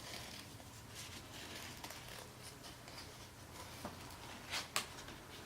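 Scissors cutting circles out of folded construction paper: faint paper rustling and small snips, with two sharper snips close together a little before the end.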